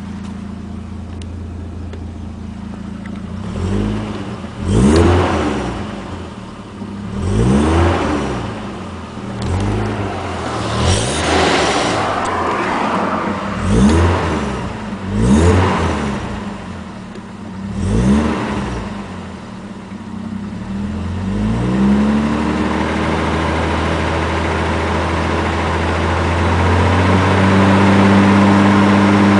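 Toyota 1JZ-GTE turbocharged straight-six idling, then revved in about eight quick blips, then raised to a steady higher speed that steps up again near the end. The engine has a rod knock, which the owner suspects comes from a weak original oil pump giving low oil pressure at start-up.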